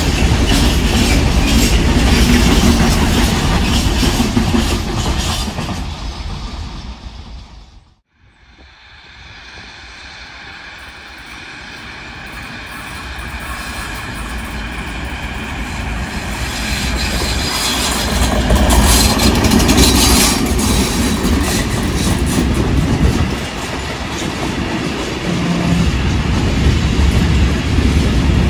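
A container freight train rolling past, its wheels clicking over the rail joints, fading out about eight seconds in. Then a diesel-hauled freight train approaches, its engine growing steadily louder, and its open wagons rumble and clack past.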